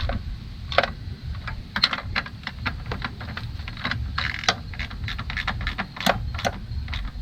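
A socket ratchet clicking in short, irregular runs while intake manifold bolts are tightened, with tools clinking, over a steady low background rumble.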